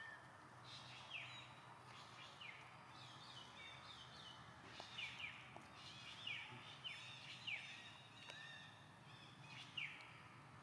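Birds chirping faintly: many short, quick chirps that slide downward in pitch, scattered irregularly.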